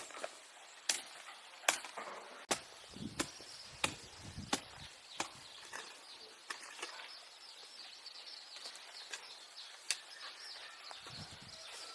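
Sharp chopping strikes, about one every second for the first five seconds, then only a few scattered ones.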